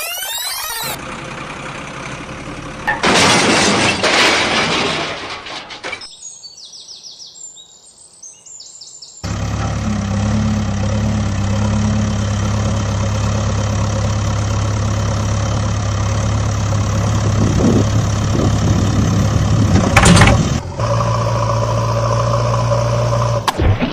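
An edited run of sound effects: a short whoosh and a burst of noise, then a steady vehicle engine hum that starts about nine seconds in and carries on, with a sharp burst near the end.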